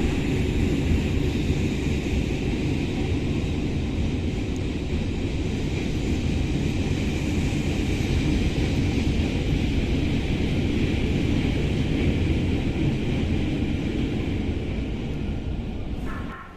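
Railway train running: a steady, loud rumble with a rushing hiss, which stops abruptly at a cut near the end.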